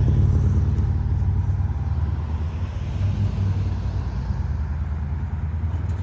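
Low, steady rumble of a passing Amtrak passenger train, easing off slightly as it moves away.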